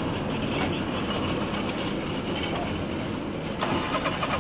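Train rolling along the track, a steady rumble with the wheels clicking over rail joints.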